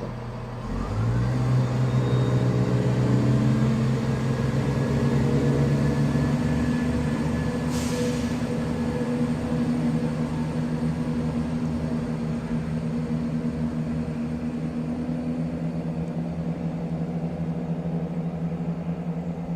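Class 170 Turbostar diesel multiple unit pulling away from a station stop. Its underfloor diesel engines open up about a second in, rising in pitch as the train accelerates, then run steadily under power. A brief hiss about eight seconds in.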